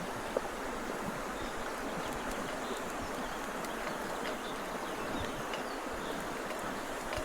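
River water running steadily past the camp, a constant rushing noise with a few faint ticks over it.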